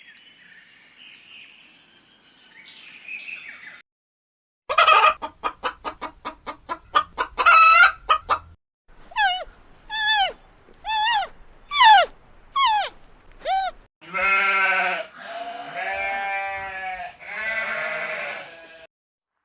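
Farm animals calling in turn: a chicken clucking in a quick run of pulses, then a string of about five short falling calls roughly a second apart, then three long bleats.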